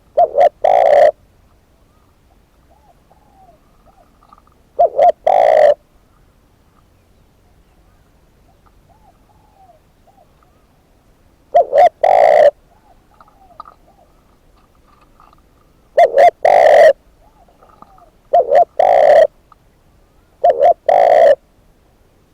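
Captive spotted dove used as a decoy bird, cooing loudly close to the microphone. It gives six calls, each a short note then a longer one. Between the calls there are faint, small, repeated call notes from other birds in the distance.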